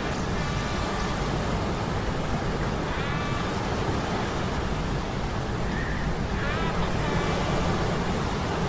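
Steady hum of metal gears layered with sea-storm surf and wind noise. A few brief high gliding tones rise over it, about three seconds in and again around six and a half seconds.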